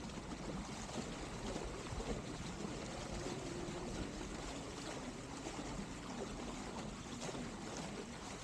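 Water rushing and splashing steadily along the hull of a Byte CII sailing dinghy moving at speed.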